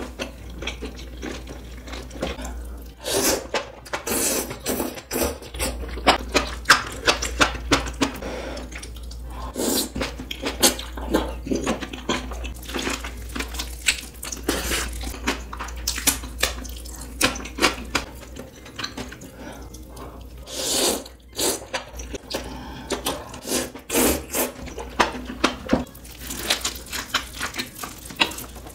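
Close-miked wet chewing, lip smacks and mouth clicks of someone eating kimbap, a dense run of small squelches and ticks.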